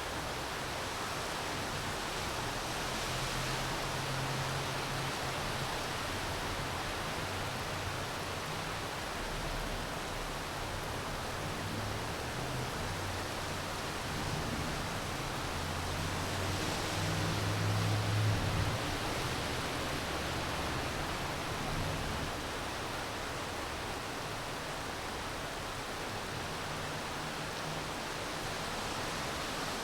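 Steady rain falling, an even hiss. A low rumble swells a little past the middle and fades again.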